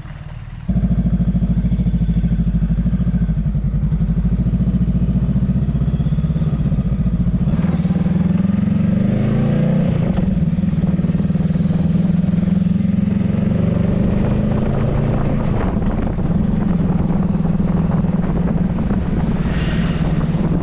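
Honda Rebel 500's parallel-twin engine running under way, loud and close. It cuts in suddenly under a second in, and its revs rise and shift about eight to ten seconds in.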